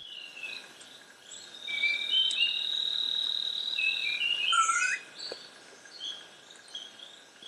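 Rainforest birds calling: a long steady high whistle of about two and a half seconds, several short whistled notes and a swooping note, over a faint steady hum of insects.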